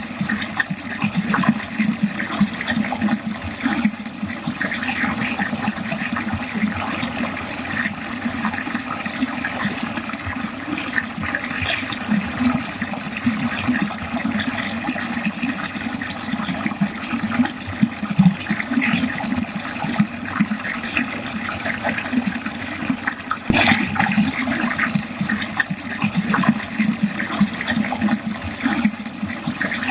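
Water flowing steadily down a drain, continuous and unbroken.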